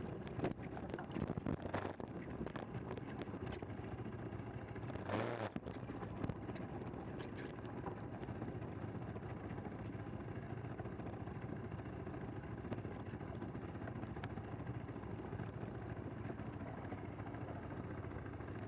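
KTM 390 Adventure's single-cylinder engine running steadily as the motorcycle is ridden, with a few sharp ticks in the first three seconds and a short burst of noise about five seconds in.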